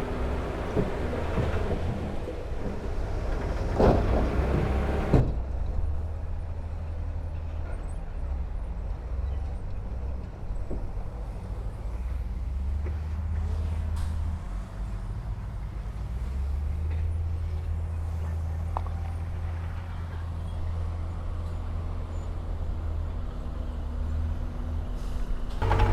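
Heavy diesel earthmoving machinery running with a low, steady engine rumble. For the first five seconds the sound is fuller, with a few sharp knocks, then it changes suddenly to the plain low rumble.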